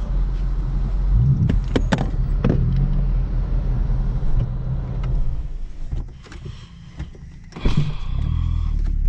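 Car engine running, heard from inside the cabin, with a few sharp clicks and knocks in the first few seconds. About six seconds in the engine sound drops away for a second and a half. A sudden loud burst follows, and the low running sound returns.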